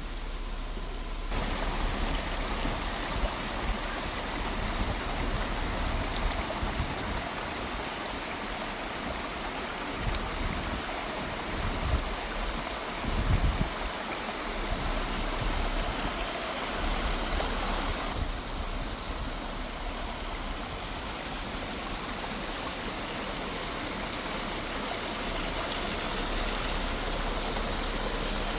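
Water spilling and splashing down the rock face of the Place of a Thousand Drips waterfall: a steady rushing noise, with a vehicle's low rumble that rises and falls. The rushing gets louder about a second in and drops back somewhat about eighteen seconds in.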